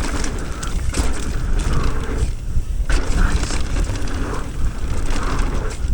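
Mountain bike riding fast down a dirt trail: wind rumbling on the microphone over the tyres on dirt, with the bike's chain and parts rattling in scattered sharp clicks.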